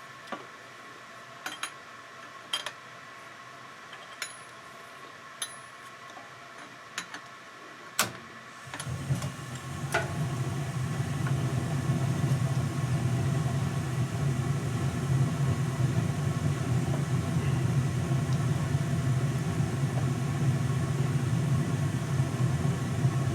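Scattered light metallic clicks and clinks of hand tools working on a bicycle crank. About nine seconds in, a steady low machine hum starts and carries on.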